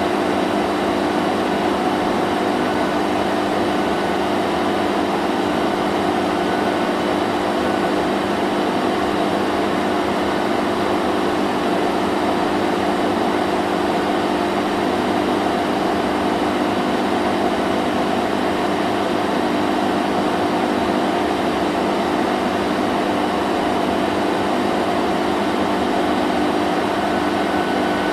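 Vacuum cleaner running steadily: a constant motor whine and rush of air with a low hum underneath, unchanging throughout.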